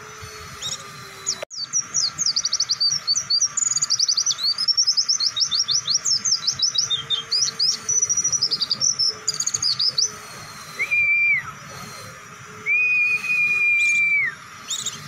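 White-eye (pleci) song: a long, fast run of high twittering notes from about a second and a half in to about ten seconds, followed by two flat, level whistles, the second one longer.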